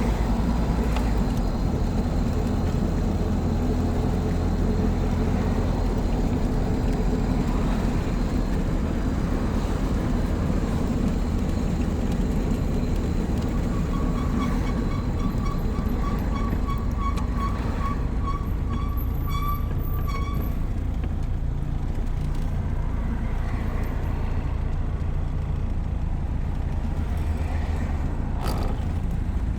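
Old car's engine and road noise while driving, a steady low rumble heard from inside the cabin. For several seconds about halfway through, a high-pitched beeping pulses a few times a second, then stops.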